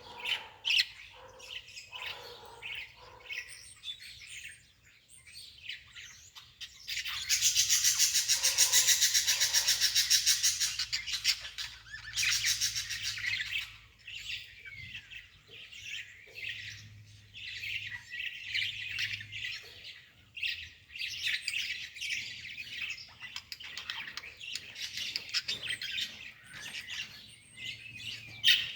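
Birds chirping and twittering in many short high calls, with a loud, rapid trill-like chatter for a few seconds about a quarter of the way in.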